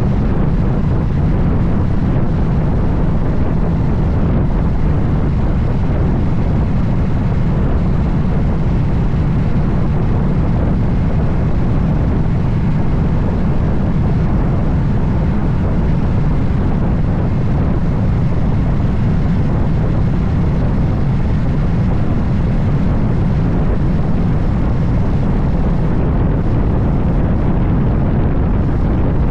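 Steady wind rush over the microphone of a Moto Guzzi Stelvio motorcycle being ridden at speed, with its engine and road noise droning low and even underneath.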